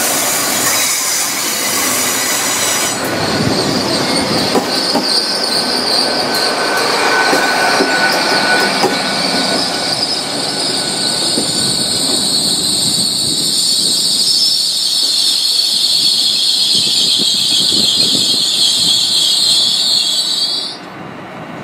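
GWR Class 800 bi-mode intercity train running along a curved platform, its wheels squealing high and steadily on the curve, the squeal sinking slightly in pitch over the last few seconds. The sound drops off abruptly near the end.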